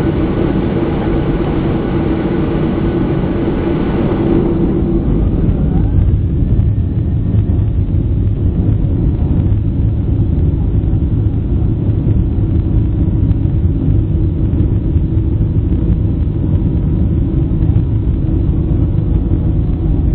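Steady cabin noise inside a Boeing 737-800, with the CFM56-7B turbofan engines and the airframe making a continuous rumble. About four to five seconds in, the higher hiss fades and the low rumble grows stronger.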